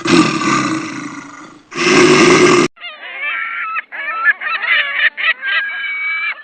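A large animal's loud roar fades out, and a second roar follows about two seconds in. Near the middle it cuts to a run of waterfowl honking calls, many short calls rising and falling in pitch.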